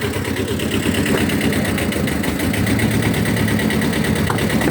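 A Kubota engine ticking over at a steady idle.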